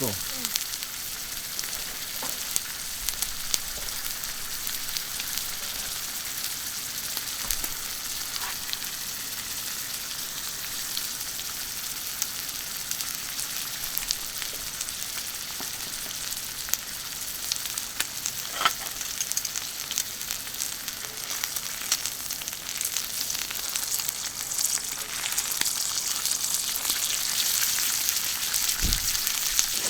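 Food sizzling on a thick iron griddle plate: a steady frying hiss with many small scattered pops, growing louder over the last few seconds.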